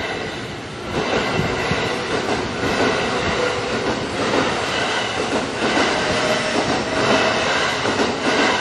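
Kintetsu Nara Line electric train passing over a level crossing, its wheels clacking over the rail joints. The sound rises about a second in and stays loud.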